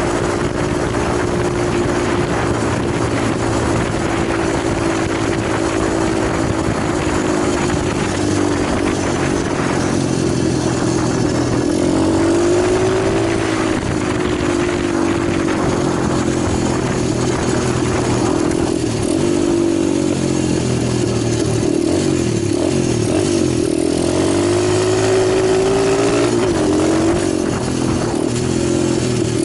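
Italjet 125 cc pit bike engine running steadily, the revs rising and falling twice, about midway and near the end.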